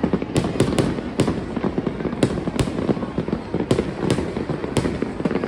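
Aerial fireworks going off: about ten sharp bangs at irregular intervals over a continuous low rumble of overlapping bursts and crackle.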